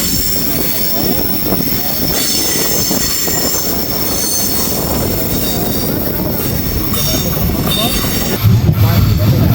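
A rail car running, its steel wheels squealing steadily on the rails over a rumbling ride noise. Near the end a louder low hum comes in.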